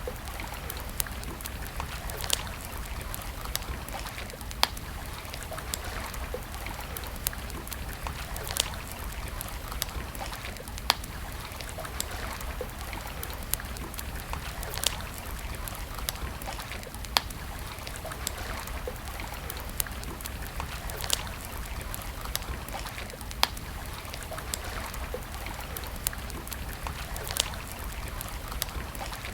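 Wood campfire crackling, with a sharp pop about every two seconds and finer ticks between, over the steady trickle of a stream.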